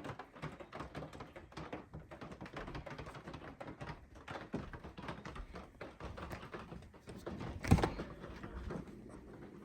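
Meltwater from melting snow dripping in quick, irregular taps, with one louder thump about three-quarters of the way through.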